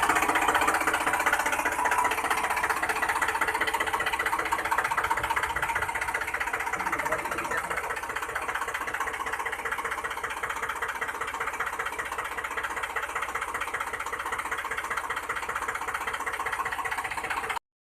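A small motor or engine running steadily with a fast, even rattle, cut off abruptly near the end.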